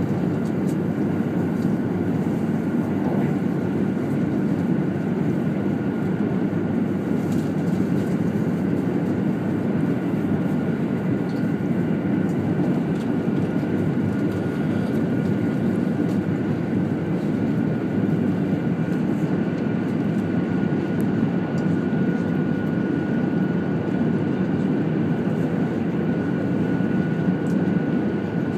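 Steady running noise of a 200 series Shinkansen at speed, heard inside the passenger car: an even low rumble with a thin, steady high tone above it.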